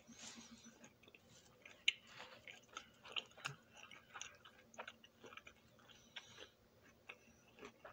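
A person chewing a mouthful of food close to the microphone: an irregular run of small clicks from the mouth, the sharpest about two seconds in.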